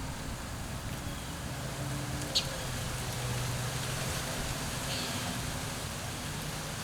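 Steady low hum of distant road traffic, a little louder in the middle, with a short sharp tick about two and a half seconds in.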